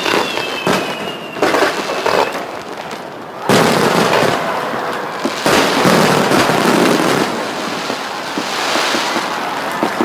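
Aerial fireworks going off: separate bangs with two falling whistles in the first second or two. About three and a half seconds in, a sudden dense, continuous crackle of many bursts starts.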